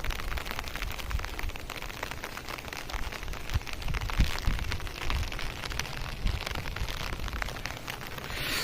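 Rain pattering in many small ticks over a steady hiss of water, with an irregular low rumble throughout.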